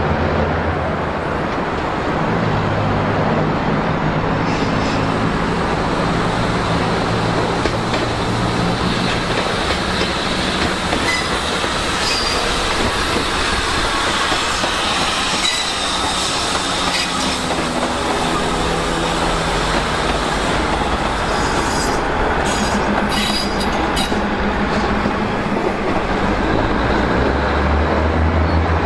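State Railway of Thailand diesel railcar train passing: its diesel engines run under a steady rumble of wheels on rail, with the wheels clacking over the rail joints. A quick run of sharp clicks comes about two-thirds of the way through.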